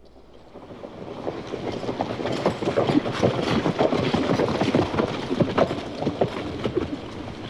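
Horses' hoofbeats on a dirt road, a quick irregular run of thuds that fades in from silence, grows loudest midway as the horses come close, then eases slightly.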